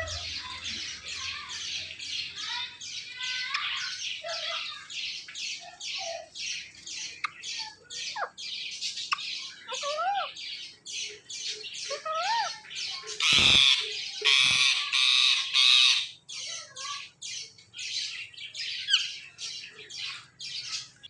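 Ringneck parrot giving a rapid string of short, harsh, high-pitched squawks, about three or four a second, with a few short rising-and-falling whistles mixed in. It screeches louder and harsher for a couple of seconds past the middle.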